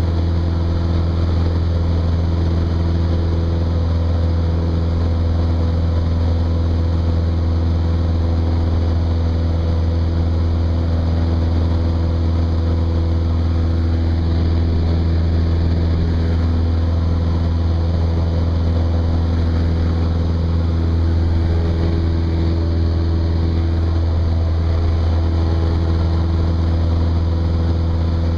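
Cessna 172's piston engine and propeller droning steadily at a constant power setting, with a strong low hum.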